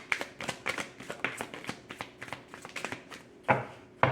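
A tarot deck being shuffled by hand: a quick run of card slaps, about four or five a second. Near the end come two louder knocks, as the deck is tapped or set down.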